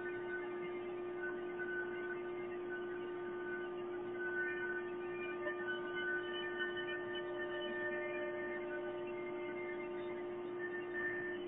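Yimming 1325C CNC router's spindle running with a steady high hum, with fainter higher tones that come and go over it.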